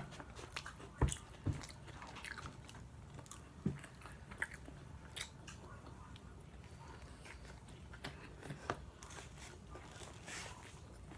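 A person chewing and biting fast food close to the microphone: wet mouth sounds with scattered short crunches and clicks, the loudest ones about a second in and again near four seconds.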